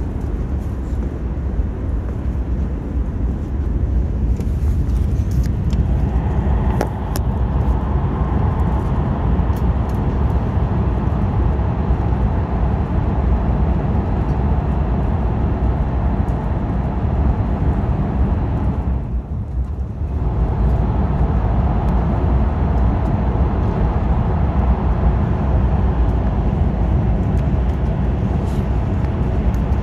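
Running noise inside a Hokkaido Shinkansen train at speed: a loud, steady low rumble. About two-thirds of the way through, the higher part of the noise drops away for about a second, then returns.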